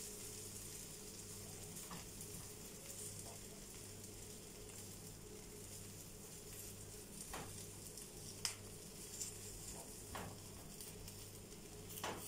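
Folded filled crepes frying gently in a nonstick pan, a faint steady sizzle, with a few light ticks and knocks as they are turned and moved by hand.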